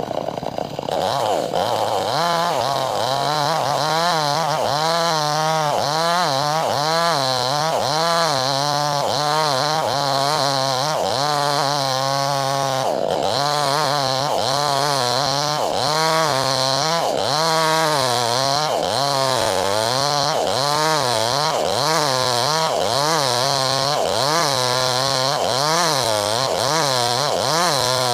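Chainsaw ripping wood lengthwise, its engine note rising and falling about once a second as it works under load in the cut.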